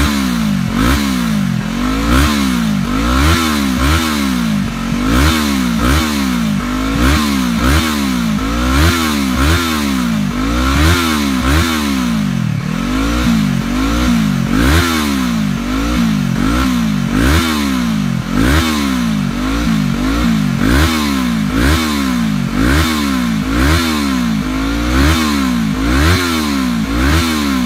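Yamaha R3 parallel-twin engine through a Devil D5M slip-on exhaust, revved over and over, its pitch rising and falling about once a second.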